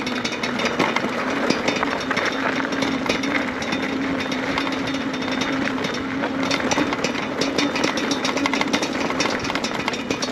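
Electric bike riding over rough dirt, the bike rattling rapidly and continuously over a steady hum that fades out near the end.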